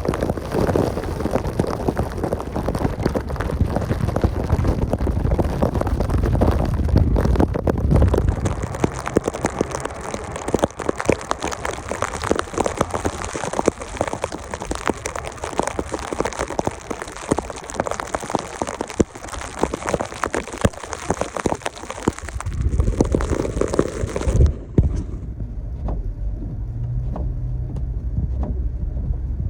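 Toyota FJ Cruiser pushing through deep snow: a dense crackling patter of snow and ice hitting the truck over the low rumble of its V6. About 24 seconds in the patter cuts off abruptly, leaving a steady low engine hum.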